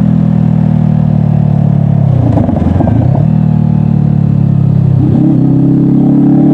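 Honda CBR500R's parallel-twin engine running steadily at road speed, heard from the rider's seat. From about five seconds in, the pitch starts to rise slowly as the bike gathers speed.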